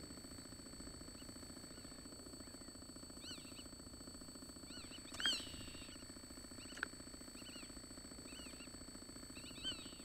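Small birds chirping in short arched calls in a few scattered bursts, loudest about five seconds in. Underneath runs a steady low buzz with two thin high whines, and a single sharp click comes near the seventh second.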